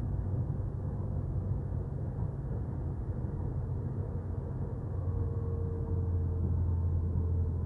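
Steady low hum and rumble inside a Docklands Light Railway carriage, with a few faint held tones above it.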